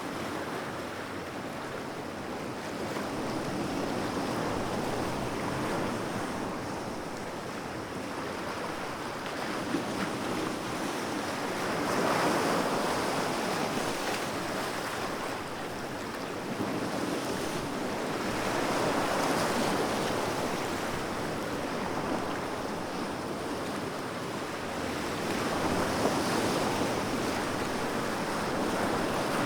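Ocean waves breaking and washing in: a continuous surf hiss that swells roughly every seven seconds.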